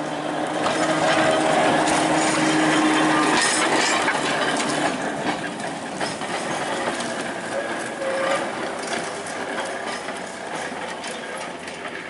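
Tram running along the track, a steady rumble and clatter of wheels on rail with a low hum underneath, loudest in the first few seconds and slowly dying away toward the end.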